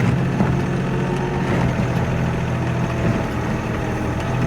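Kioti NX4510 tractor's diesel engine running steadily.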